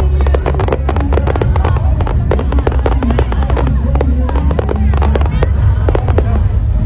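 Fireworks display going off: rapid, dense bangs and crackles one after another over a steady deep rumble, with music playing underneath.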